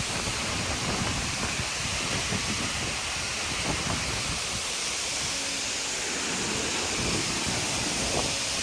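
Steady rushing hiss of a tall waterfall close by, the falling water and its spray making an even noise with no breaks.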